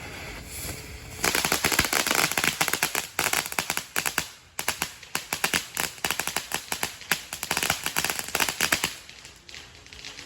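Small consumer firework (Half Pint) going off in a rapid, dense string of crackling pops. It starts about a second in, dips briefly near the middle, and dies away about a second before the end.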